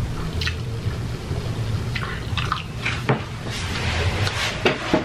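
Close-miked chewing with wet mouth clicks and smacks, over a steady low hum.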